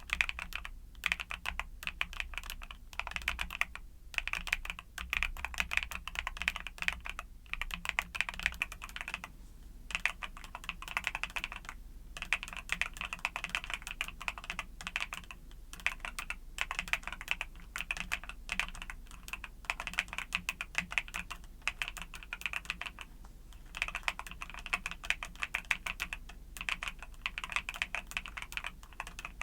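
Continuous fast typing on a YUNZII mechanical keyboard with Cocoa Cream switches: rapid runs of keystrokes broken by several brief pauses, over a faint steady low hum.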